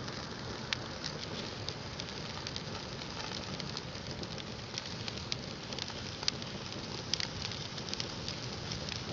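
Wood bonfire burning: a steady hiss with frequent sharp crackles and pops.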